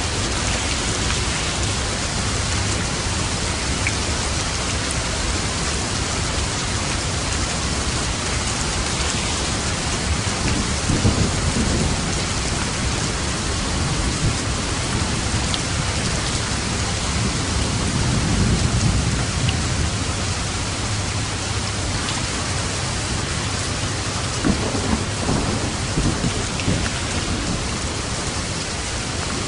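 Steady rain with light rolls of thunder: a low rumble about a third of the way in, a longer one past the middle, and a few shorter ones near the end.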